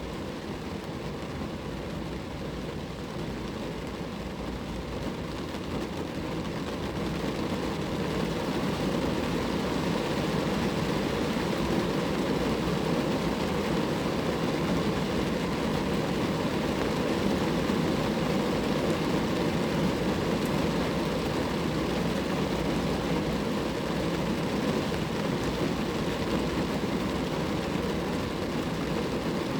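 Rain falling steadily on a car, an even rushing patter that grows heavier about seven seconds in and then holds.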